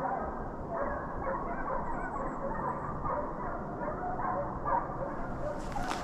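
A pack of deer hounds running and giving tongue on a chase: many overlapping baying and yelping voices, calling steadily with no break.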